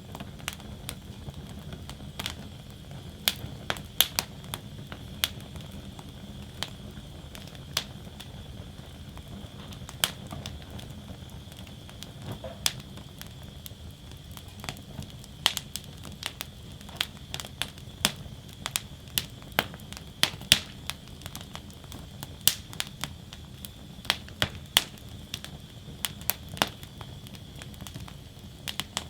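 Wood fire burning in a fire basket, crackling with many sharp, irregular pops over a low, steady rumble of flames.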